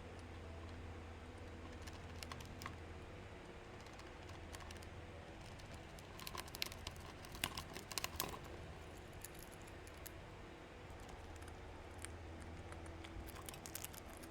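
Runs of quick, light clicks and taps, densest in a burst a little past the middle and again near the end, over a low steady hum.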